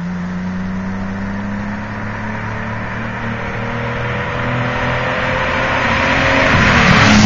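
Toyota Supra Mk II's inline-six engine approaching under acceleration on a car flyby. A steady engine note grows steadily louder with slowly rising pitch and is loudest as the car reaches the microphone at the end.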